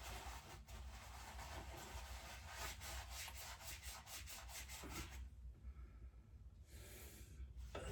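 Faint hand scrubbing of a lawnmower carburettor's float bowl: a run of quick rubbing strokes, a pause about five seconds in, then a short final burst.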